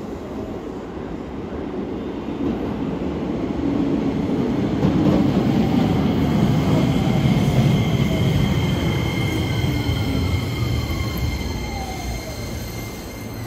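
Keio 8000 series electric train pulling into the platform and braking to a stop. Running and wheel noise build to a peak midway, then a motor whine falls in pitch and a thin high brake squeal holds until it halts at the very end.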